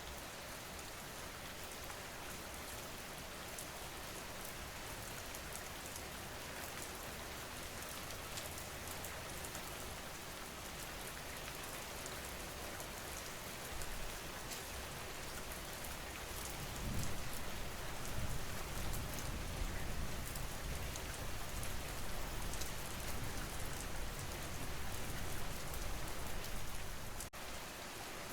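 Steady rain falling, an even hiss throughout. About halfway through a low rumble joins underneath and gets louder, then drops away just before the end.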